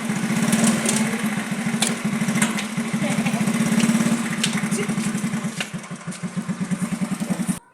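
Second-hand motorcycle engine running steadily with an even pulsing beat. It cuts off suddenly near the end.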